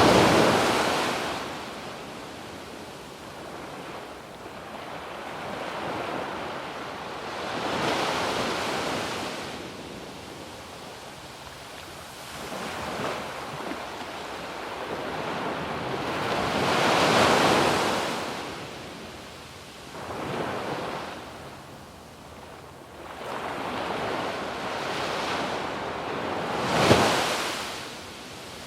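Waves breaking on a sandy beach, each surge of surf swelling and washing back in turn, several every half minute, with a sharper crash near the end. Some wind on the microphone.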